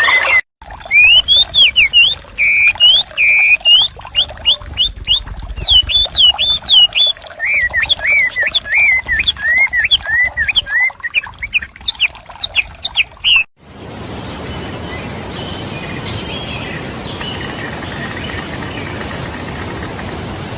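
A bird singing, a rapid run of sweeping chirps and repeated phrases. About thirteen seconds in, the song cuts off and a steady rushing noise with faint high chirps takes over.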